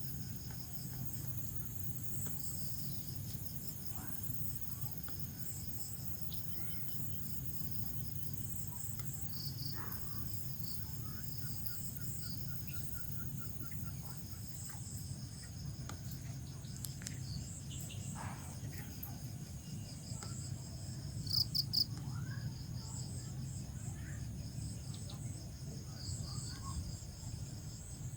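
Crickets chirping in repeated pulsed trills at two high pitches, with one louder chirp about three-quarters of the way through, over a steady low rumble.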